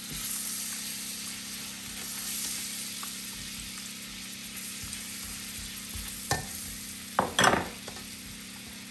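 Food sizzling steadily in a hot pan as it is stirred, with a short clatter about six seconds in and a louder pair of clatters about a second later.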